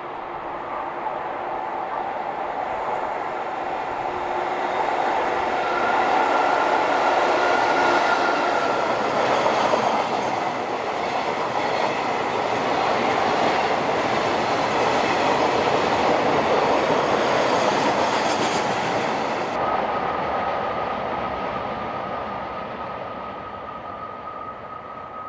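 A freight train of oil tank wagons hauled by an EF65 electric locomotive passing close by, with the steady noise of steel wheels on rail. The noise builds as the wagons come alongside, stays loud for most of the passage, then fades as the tail recedes. A thin, steady high-pitched whine sounds in the last few seconds.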